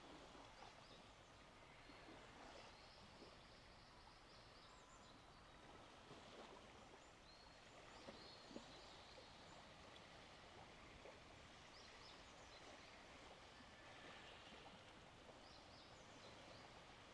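Faint seaside ambience: a steady, soft wash of surf with scattered short, high bird chirps.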